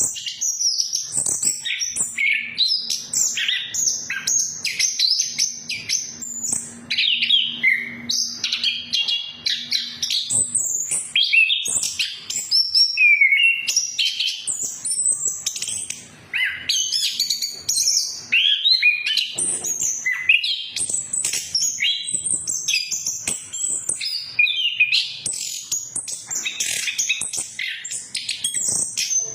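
Chestnut-capped thrush (anis kembang) singing non-stop: a rapid, varied run of short chirps, trills and sliding whistled notes with hardly a pause.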